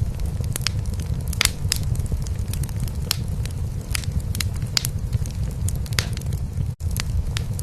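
Wood fire crackling in a fireplace, with sharp pops at irregular intervals, over a cat's steady low purring. The sound drops out for a split second near the end.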